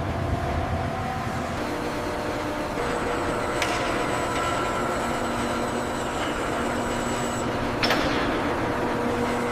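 Steady machine noise: a low rumble with several held tones, broken twice by a brief sharp sound about four seconds apart, then cutting off suddenly at the end.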